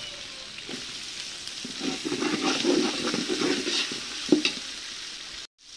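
Tomatoes and onions sizzling in hot oil in a large metal pot, stirred with a perforated metal ladle that scrapes against the pot, louder in the middle. There is one sharp knock of the ladle about four seconds in, and the sound cuts out briefly near the end.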